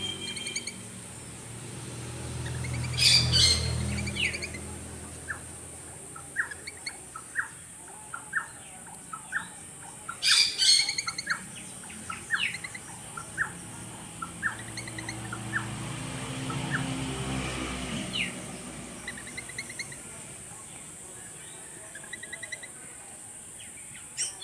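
Birds chirping with many short calls, with two loud, harsh squawking calls about three and ten seconds in, over a steady high hiss. A low rumble swells and fades twice in the background.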